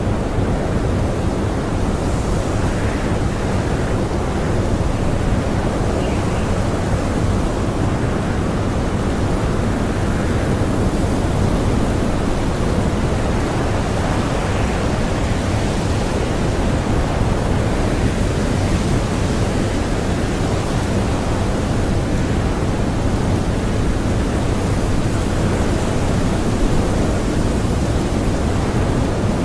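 Strong blizzard wind blowing as a steady, dense rush of noise.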